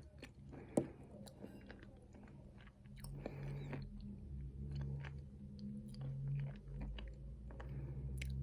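Close-miked chewing of nuts coated in chocolate paste: wet mouth sounds with many sharp crunches and clicks. A low steady hum sits under it from about the middle on.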